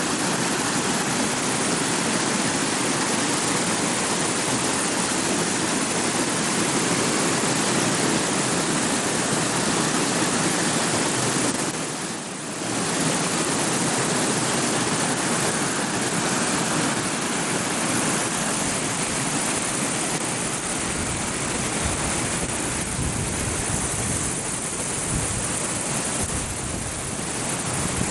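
Creek waterfall cascading over rock: a loud, steady rush of falling water. In the second half, low uneven rumbles of wind buffet the microphone.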